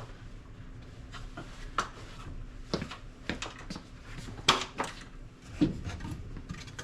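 Scattered metallic clinks and knocks of tools and front-suspension parts being handled while a press is let back up. They come as separate sharp hits, the loudest about four and a half seconds in, over a faint steady hum.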